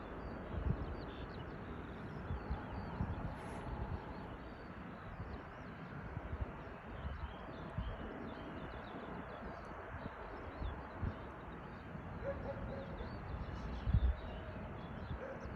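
Small birds chirping over a steady outdoor background noise, with occasional low thumps, loudest near the end.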